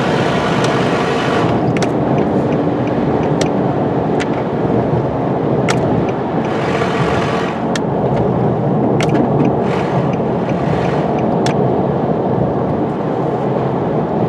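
Pickup truck cruising at highway speed, heard from inside the cab: steady road, wind and engine noise, with a few sharp clicks. The truck is running with an oxygen sensor taken out of the exhaust, which lets it reach about 80 mph and points to a clogged catalytic converter.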